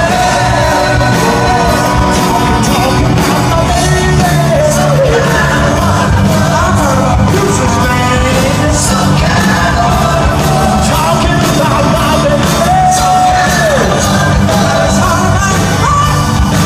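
Live rock band playing an upbeat soul-rock song, with voices singing and shouting over the band.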